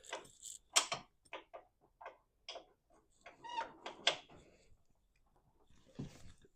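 Scattered light clicks and taps of hand tools on metal, at uneven spacing with a short cluster about halfway through, as bumper bracket bolts are worked loose.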